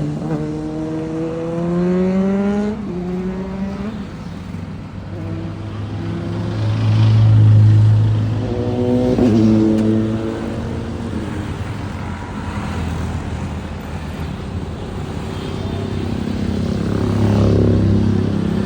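Motorcycle engines revving up: engine notes climb in pitch over the first few seconds and again about nine seconds in, over a steady low engine rumble that swells twice.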